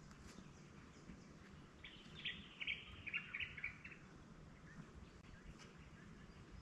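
A bird calling: a quick chattering run of short, high chirps, lasting about two seconds from about two seconds in, over a quiet background.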